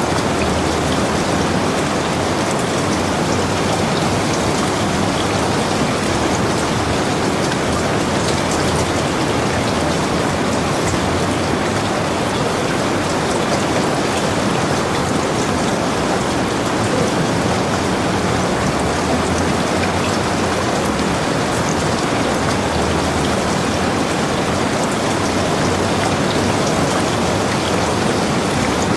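Steady heavy rainfall, a dense, even hiss of drops falling without letup.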